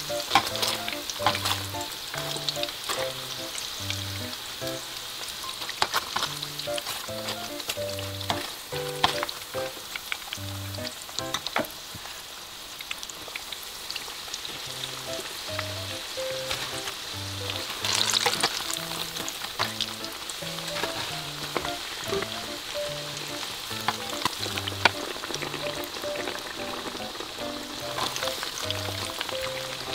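Breaded jalapeño peppers frying in hot oil: a steady crackling sizzle with scattered sharp pops.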